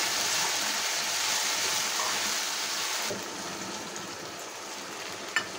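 Masala paste and browned onions sizzling in hot oil in a steel kadhai as the masala is fried (bhuna). The sizzle is louder for about the first three seconds, then drops, and there is a short click near the end.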